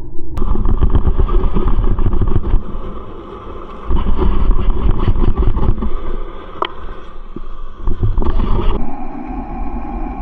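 Rumbling, crackling water noise picked up by a camera underwater. It changes abruptly three times, about half a second, four seconds and nine seconds in.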